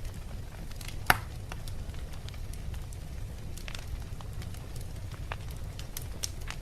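Wood fire burning in a fireplace: logs crackling and popping over a steady low rumble of flame, with one sharp pop about a second in.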